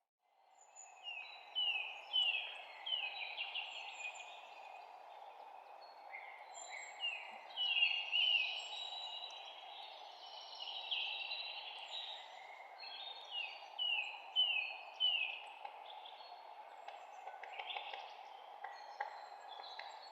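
Several songbirds chirping and singing in a countryside dawn chorus: runs of short, repeated, downward-sliding notes and quick chirps, over a steady background hiss. The sound fades in from near silence at the start.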